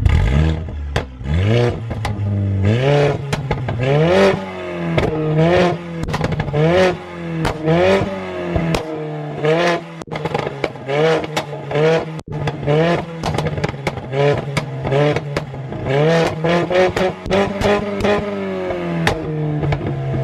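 Mercedes-AMG A45's turbocharged four-cylinder engine with a decat downpipe, idling and being blipped in short revs about every second or so, each rev dropping back with a burst of pops and crackles from the exhaust.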